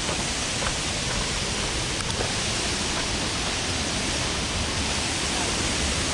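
Waterfall rushing, a steady, even wash of falling water noise.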